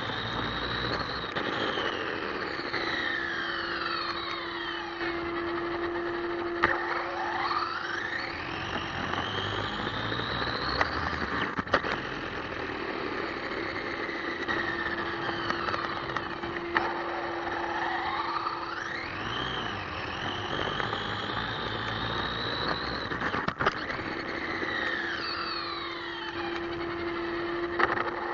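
Electric motor of an RC monster truck whining, its pitch sweeping down and back up again and again as the truck slows and speeds up, over a steady hiss, with a few sharp knocks.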